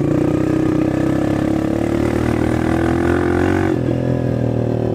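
Small dirt bike's engine running under the rider. Its pitch climbs, drops sharply about three-quarters of the way in, then holds steady.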